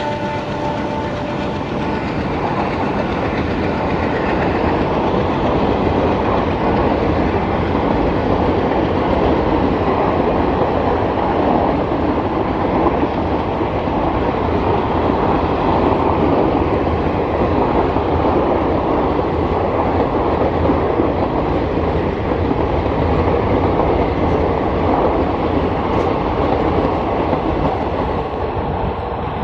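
Passenger train coaches rolling past close by: a steady rumble of wheels running over the rails, the top end dropping away near the end as the last coach goes by.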